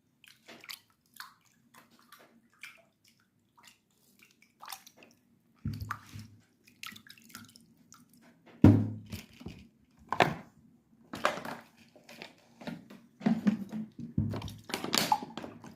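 Close-up eating sounds of fufu and egusi soup: a run of short wet clicks and squelches of mouth and food, with several louder ones in the second half.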